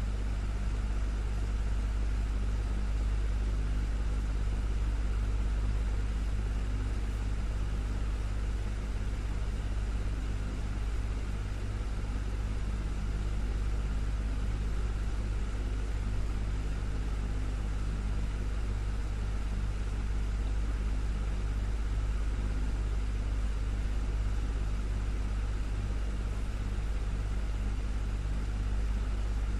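Desktop fan running steadily: a constant low motor hum under an even rush of moving air.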